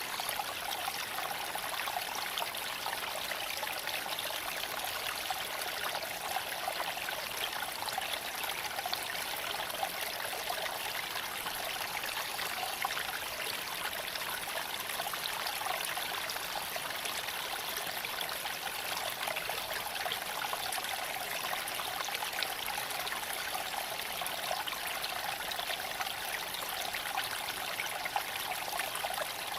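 A steady, even rushing noise like running water, with no breaks or changes.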